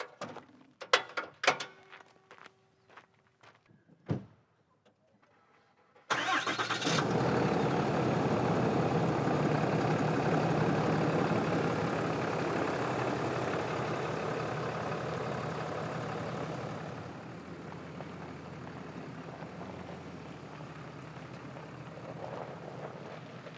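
A few scattered clicks and knocks, then about six seconds in a vehicle engine cranks, starts and runs steadily. About eleven seconds after starting, it settles quieter.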